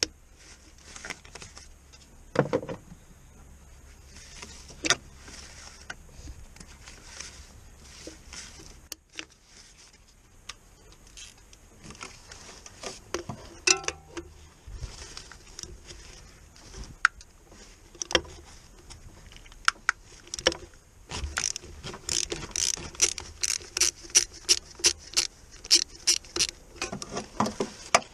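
Hand tools working on the car: scattered metallic clicks and knocks, then a fast run of clicks, about three a second, for several seconds near the end.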